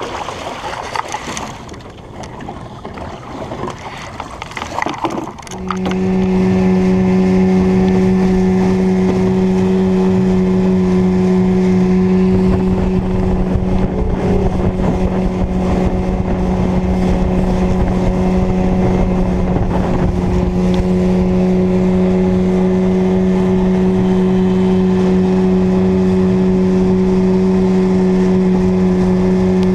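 Small boat's outboard motor coming in suddenly about five seconds in, then running at a steady speed with an even, unchanging hum.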